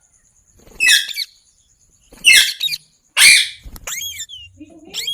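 Green parrot giving harsh, high-pitched screeching calls: three loud ones about a second apart, then a few fainter, shorter chirps.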